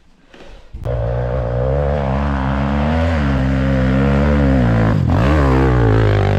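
Enduro motorcycle engine firing up about a second in and running hard at high revs, its pitch sagging once and then dropping sharply and climbing back near the end.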